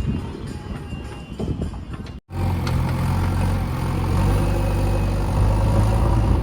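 A heavy vehicle's diesel engine running steadily. Before a sudden cut about two seconds in, the sound is quieter and uneven; after the cut, the engine note is louder and steady.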